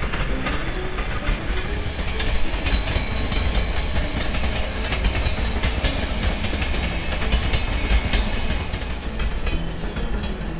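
A train running past on rails: a steady rumble with the wheels clattering over the rail joints.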